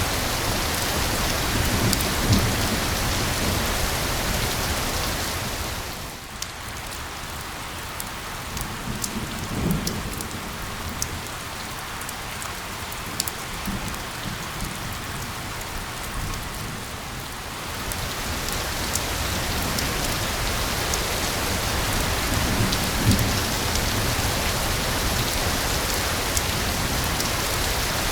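Steady rain hissing evenly, with a few low rumbles underneath. For about twelve seconds in the middle it grows quieter and single drops patter out sharply, then the full hiss returns.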